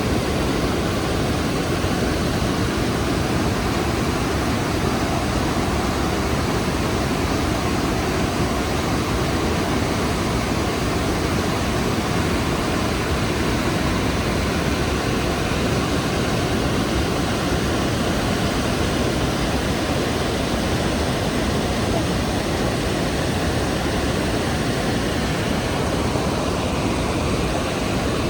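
The Rhine Falls, a large waterfall, thundering close by: a loud, steady roar of falling water that holds even throughout, heaviest in the low rumble.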